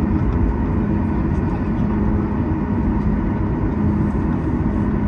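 Boeing 737 MAX 8's CFM LEAP-1B engines running at taxi power, heard from inside the cabin. A steady low rumble with a constant hum throughout.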